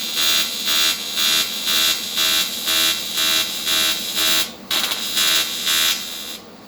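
Pulsed AC TIG welding arc from a Vulcan ProTig 205 on aluminum, buzzing loud and soft about twice a second. The arc drops out briefly about four and a half seconds in, then stops near the end.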